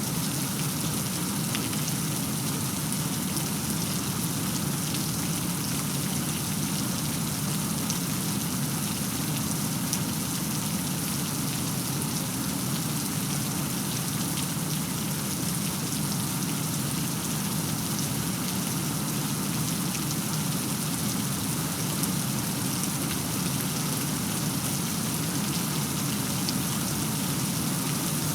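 Steady rainfall, a continuous even hiss with faint drop ticks, and no thunderclap.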